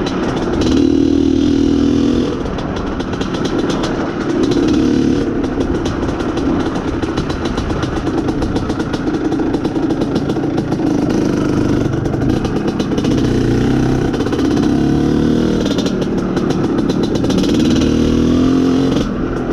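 IZh Planeta Sport's single-cylinder two-stroke engine pulling the bike along, the throttle opening and easing off several times, with a fast clatter over the engine note.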